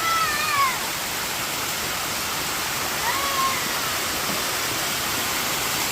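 Steady rush of water from a small waterfall. Two short high squeals cut through it, one at the start and one about three seconds later.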